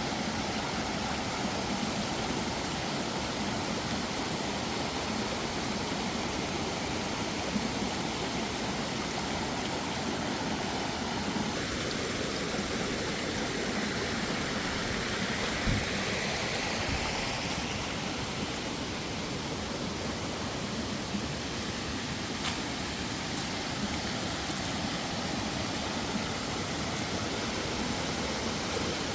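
Steady rush of flowing stream water, with the sound changing slightly about twelve seconds in and a couple of faint knocks.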